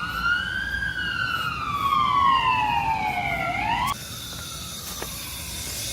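Siren wailing: one slow rise and a longer fall in pitch, cutting off abruptly about four seconds in, then a steady hiss.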